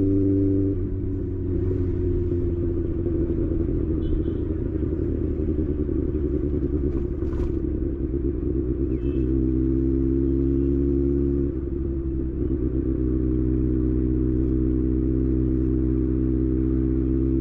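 Kawasaki ZX6R's inline-four engine idling steadily. A rougher, unsteady stretch runs from about a second in until about nine seconds, and a short dip comes near twelve seconds. Near the end the pitch creeps slightly up.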